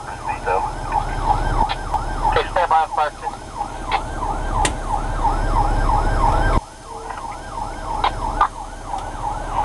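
Fire engine siren cycling in a fast rise-and-fall, about three sweeps a second, over the truck's engine and road rumble. The rumble drops off suddenly about two-thirds of the way through while the siren keeps going.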